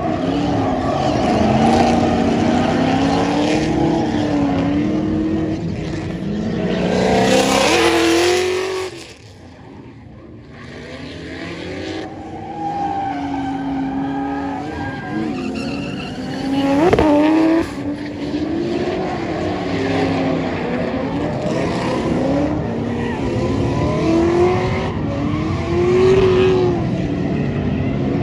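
Drift car engine revving up and down over and over, with tyres squealing and hissing. The noise peaks about seven to eight seconds in, and the engine note drops away briefly around nine seconds. A sharp crack comes about seventeen seconds in.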